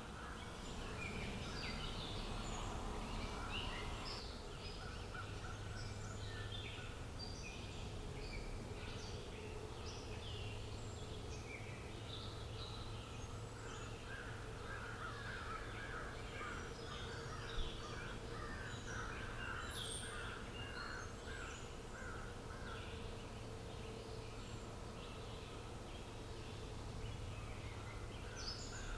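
Outdoor birdsong ambience: many small birds chirping and calling, with a stretch of rapid chattering calls near the middle, over a steady low rumble. A single sharp click a little past halfway is the loudest moment.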